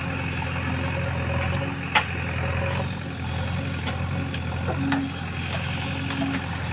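JCB 3DX backhoe loader's diesel engine running steadily, with one sharp knock about two seconds in and a few lighter knocks a little later.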